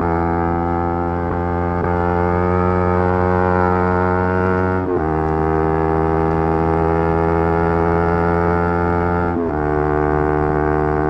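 Yamaha R3's 321 cc parallel-twin engine revving hard under acceleration, its pitch climbing slowly, with a quick break and drop in revs at upshifts about 5 and 9½ seconds in.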